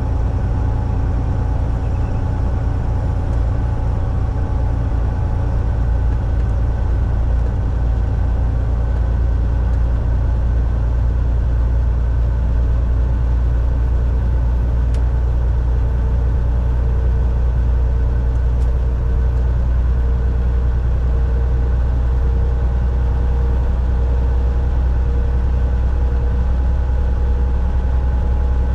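Volvo VNL 760 semi truck running at steady speed, heard from inside the cab: an even, low engine drone with road noise. A faint steady tone comes in about halfway through.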